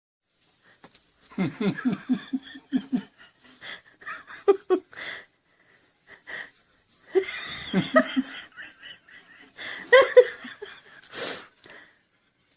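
A person laughing hard and breathlessly, wheezing, in several fits of quick pulses with short pauses between.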